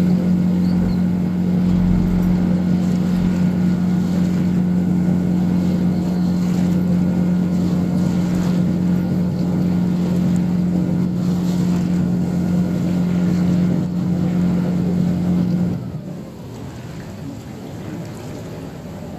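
Engine of a small harbour ferry boat running steadily with a strong even hum, then throttled back near the end, leaving the sound of water and wind.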